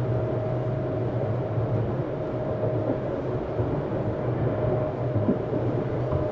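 Running sound of a Tokyu 7700 series electric train heard inside the motor car DeHa 7801: the steady rumble of wheels on rail and a low hum. A thin steady whine from the traction equipment fades out about two seconds in.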